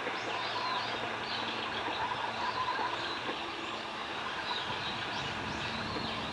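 Steady low rumble with a faint constant hum, and short high bird chirps repeating over it.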